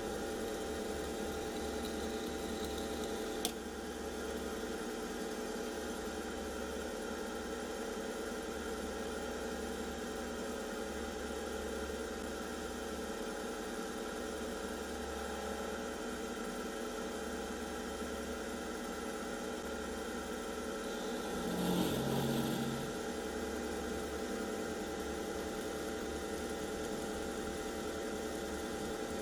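Steady machine hum made of many fixed tones, with one sharp click about three and a half seconds in and a brief louder swell a little past the twenty-second mark.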